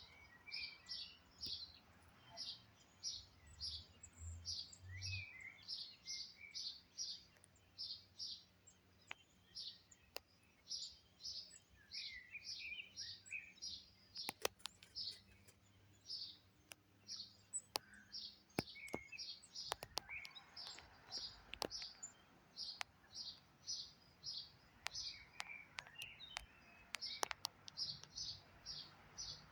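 Small birds chirping: a steady run of short, high chirps about two a second, with lower twittering now and then and a few sharp clicks.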